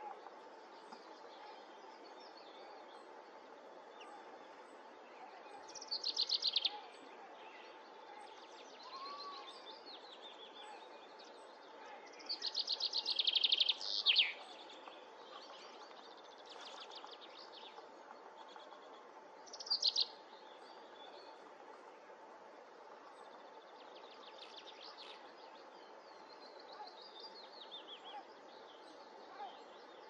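Birds calling: three louder phrases of rapid, high-pitched trilled notes, the longest about two seconds near the middle, with fainter phrases between them over a steady faint outdoor hiss.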